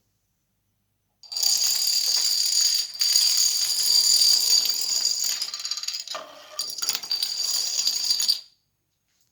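A long chain of dominoes toppling: a rapid, dense clatter of tiles knocking against each other, starting about a second in, with a short break near 3 s and a thinner stretch around 6 s, before it stops abruptly.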